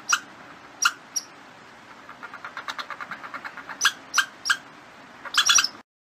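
Squirrel calls: sharp, high chirping barks, singly and in quick clusters, with a fast run of softer chattering in the middle. The calls stop abruptly near the end.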